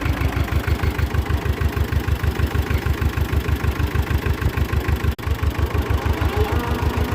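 Heavy-equipment engine running at low speed with a steady, even low beat of about seven pulses a second. Its sound cuts out for an instant about five seconds in.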